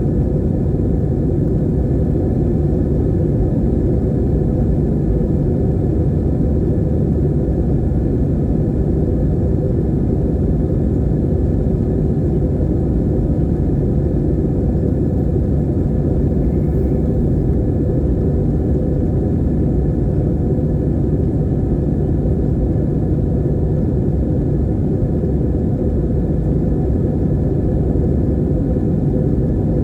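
Steady low rumble of an airplane in flight, heard inside the cabin: engine and airflow noise that holds even.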